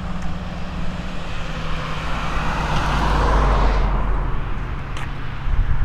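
Road traffic: a vehicle passes close by, its tyre and engine noise swelling to a peak about three seconds in and then falling away, over a steady low traffic rumble.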